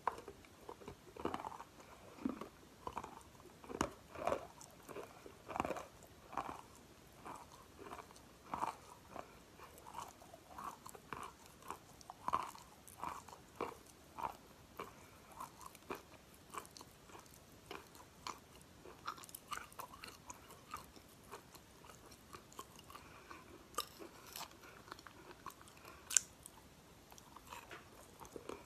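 Crunching and chewing of edible chalk pieces eaten off a spoon: a run of crisp crunches about one or two a second, thinning out in the second half. A few sharp clicks come near the end.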